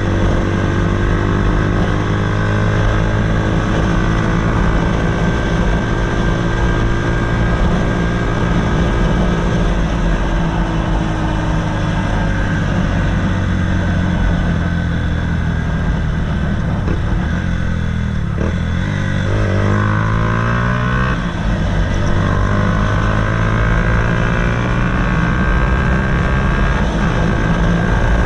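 Honda CBF125's single-cylinder four-stroke engine running through a DanMoto GP aftermarket exhaust. The engine note eases slowly downward, drops sharply about eighteen seconds in, then climbs back up within a few seconds.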